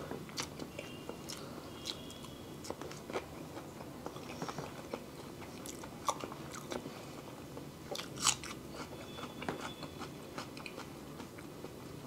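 Chewing mouthfuls of peeled hard-boiled egg: quiet, irregular wet mouth clicks and smacks, with a sharper click about eight seconds in.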